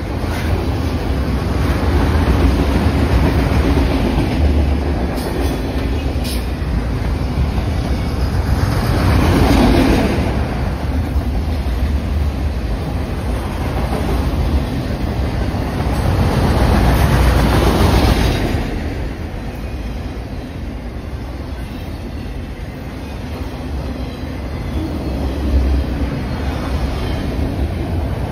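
Freight train autorack cars rolling past close by: a steady rumble of steel wheels on the rails, swelling louder twice, about nine and seventeen seconds in.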